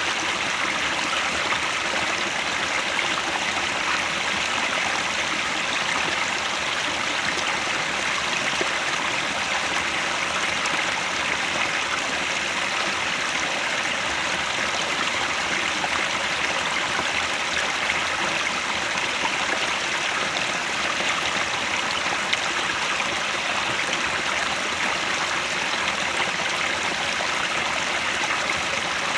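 Headwater stream flowing steadily, an even rushing of water with no breaks or changes.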